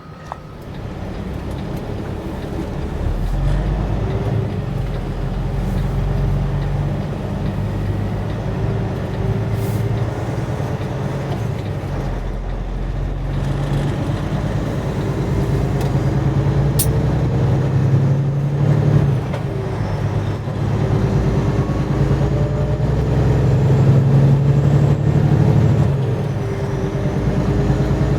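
Semi truck's diesel engine running, its note rising and falling and slowly growing louder.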